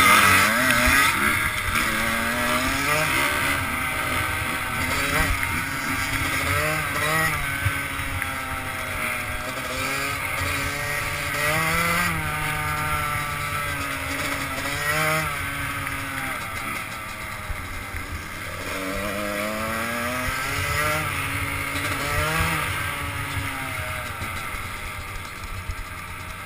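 Enduro dirt bike engine heard from the rider's own machine under way, its pitch climbing and dropping back again and again as it revs up and shifts through the gears, with wind noise on the microphone.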